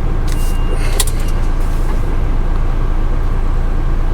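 Car-transporter lorry's diesel engine idling with a steady low rumble, heard from the cab. A reversing beeper sounds briefly at the start, and about a second in there is a short hiss with a click.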